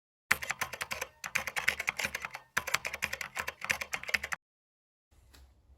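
Dense, rapid clicking in two runs of about two seconds each, starting and stopping abruptly, with a brief break about two and a half seconds in. A faint low hiss follows near the end.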